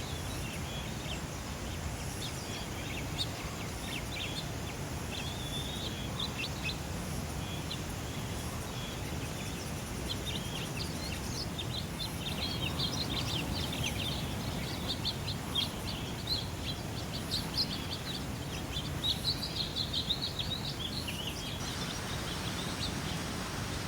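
Small birds chirping and twittering, many short high calls that come thickest in the second half, over a steady low rushing background noise.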